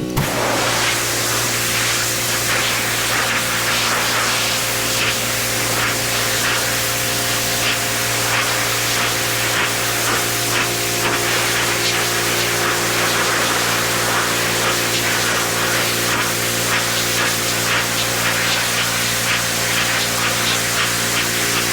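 Pressure washer running steadily, its water jet spraying with a loud, even hiss over a steady motor hum.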